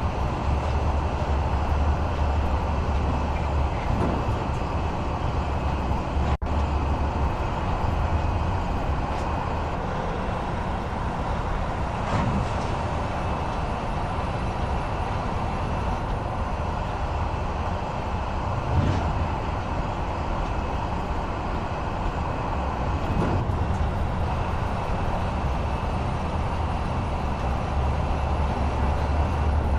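Steady low rumble and road noise of a running vehicle, continuous throughout.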